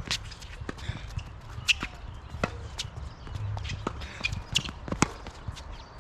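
Tennis rally: sharp pops of racket strings striking the ball, with ball bounces and players' footsteps on the hard court in between; the loudest hits come about two seconds in and near the end.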